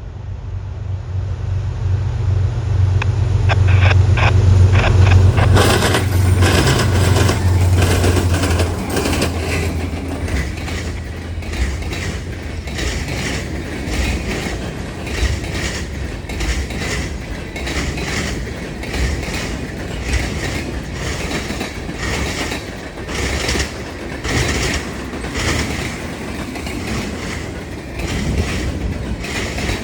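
Diesel locomotives of a freight train passing, their engines loudest a few seconds in, followed by the freight cars rolling by with a steady clickety-clack of wheels over the rail joints.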